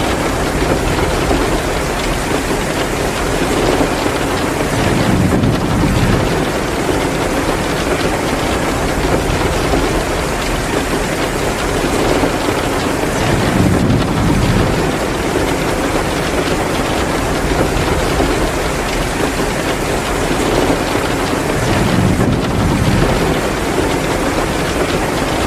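Heavy downpour of rain falling steadily. A low rumbling swell rises and fades about every eight seconds, three times.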